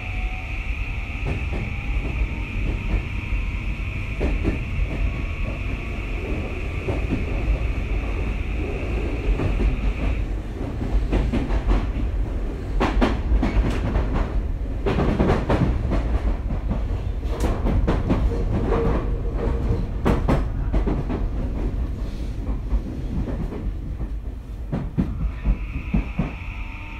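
Tokyu 2020 series electric commuter train running between stations: a steady low rumble of the wheels on the rails, with a high steady whine that stops about ten seconds in and comes back near the end. In the middle, a run of sharp clacks and knocks as the wheels pass over rail joints.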